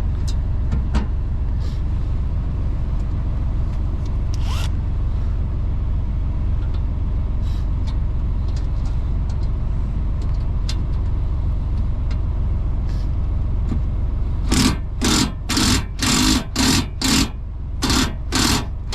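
Semi truck's diesel engine idling with a steady low rumble. Near the end, a run of about nine short, sharp noisy bursts, roughly two a second, rises over it.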